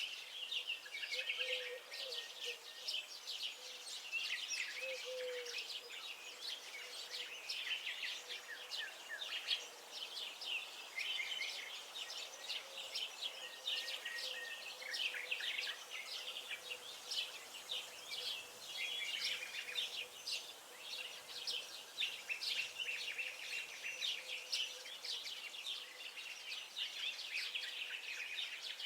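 Several songbirds chirping and singing at once: a dense, unbroken run of short high notes over faint background noise.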